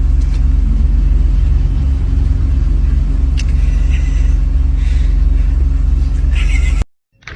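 A steady, deep, low rumbling drone with a steady pitch. It cuts off suddenly near the end.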